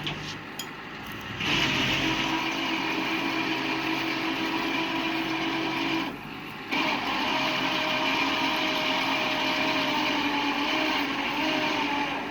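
Winch motor running with a steady whine as it pulls the tractor up by its hooked cable. It stops for about half a second near the middle, then runs again.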